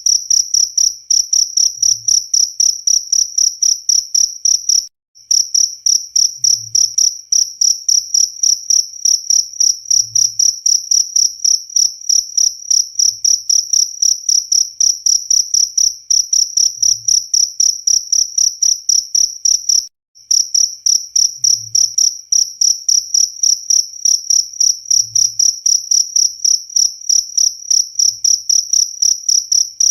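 Cricket chirping in a fast, steady, high-pitched trill of rapid pulses. It breaks off for an instant about five seconds in and again near twenty seconds.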